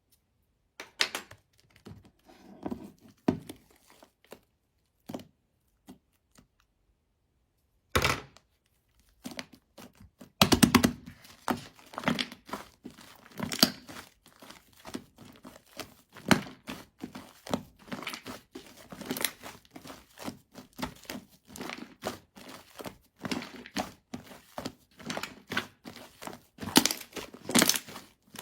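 Chocolate whipped-cream slime being played with by hand, making crackling and popping as it is squeezed and stretched. Scattered pops at first, then near-continuous crackling from about nine seconds in.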